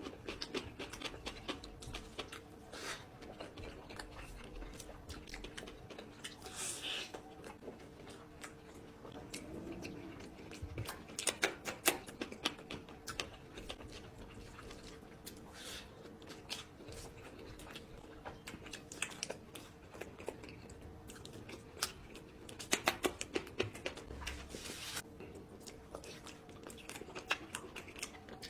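Close-up mouth sounds of a person eating curry: wet chewing and smacking with irregular clusters of short clicks and crunches.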